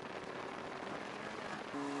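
Snowmobile running while riding: a steady mechanical hum under a dense rushing noise, its tone dropping about a second in and a stronger, steadier tone setting in near the end.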